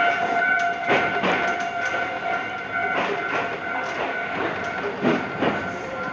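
Iyotetsu 3000-series electric train running along the line, heard from the cab: a steady whine over the running noise, with the wheels clacking over rail joints in pairs about every two seconds.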